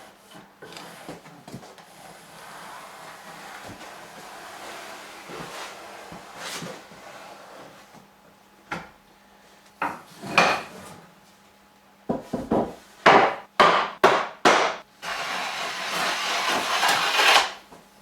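Hand tools working a wooden board: a long soft scrape of a marking gauge scoring a line along the board, a few clicks, then a quick run of six or seven sharp wooden knocks and a rasping stroke of about two seconds near the end.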